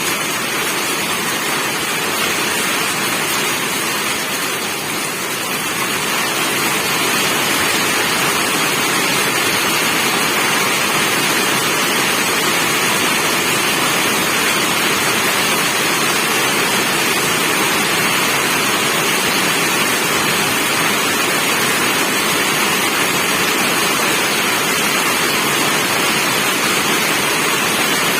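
Heavy rain falling steadily: a dense, even hiss that gets a little louder about six seconds in and then holds.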